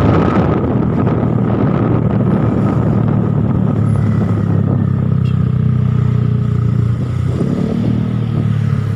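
Small automatic scooter's engine running through an aftermarket Daeng exhaust, settling after a rougher opening into a steady low note.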